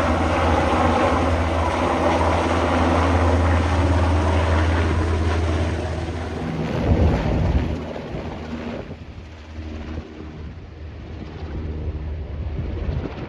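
Helicopter running steadily with a deep rotor drone. It swells briefly about seven seconds in, then drops away to a quieter, wind-like background.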